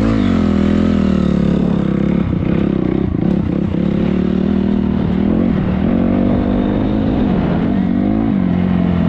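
Honda 250R dirt bike engine running at moderate revs; its pitch falls at the start, then holds steady with a few short throttle blips.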